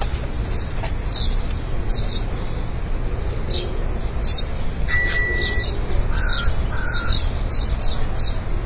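Small birds chirping over and over above a steady low rumble of street traffic, with a single bell ring about five seconds in.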